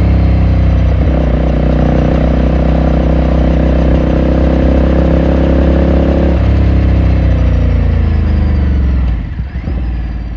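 2018 Ducati Scrambler Sixty2's 399 cc air-cooled L-twin running under way, its pitch stepping twice as the ride goes on. It then winds down in pitch as the bike slows, and the engine sound fades near the end.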